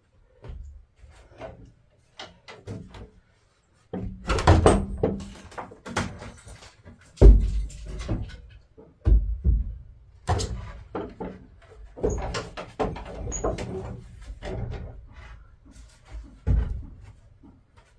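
Old wooden boards being pried loose and tossed aside: irregular knocks and thuds of wood, sparse at first and then coming thick from about four seconds in, with one heavy thud about seven seconds in.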